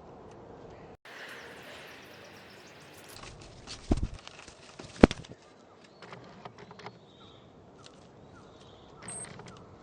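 Outdoor ambience at a backyard bird feeder: a few sharp knocks and taps, the loudest about four and five seconds in, with faint short bird chirps.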